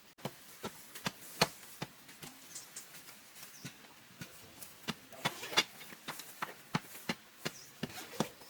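An uneven run of sharp knocks and taps, about two to three a second, with the loudest about one and a half seconds and five and a half seconds in.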